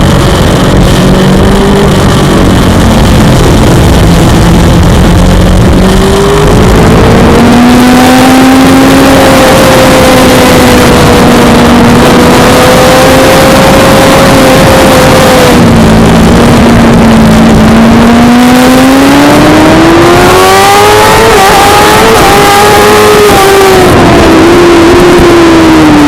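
Suzuki GSX-R600 inline-four engine running hard at high revs, its pitch climbing, holding, dipping and climbing again as the rider works the throttle and gears, over a heavy rush of noise.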